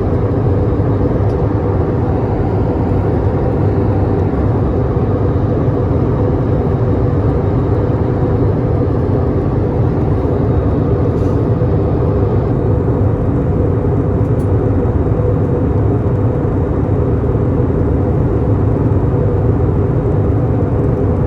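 Steady low drone inside a passenger airliner cabin in flight: engine and airflow noise, unchanging throughout.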